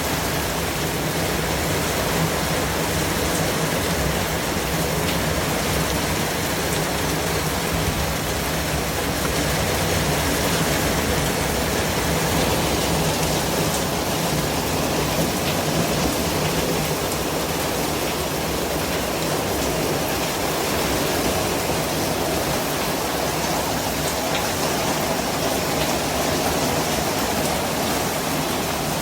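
Steady white-noise hiss, spread evenly from the lowest to the highest pitches, with only slight slow swells in level.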